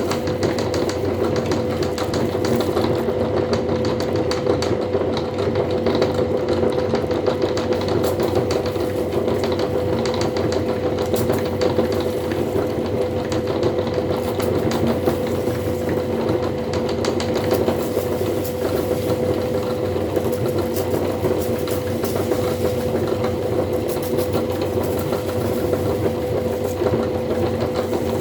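Electric meat grinder running steadily, its motor hum carrying a dense, continuous crackle of snack being ground.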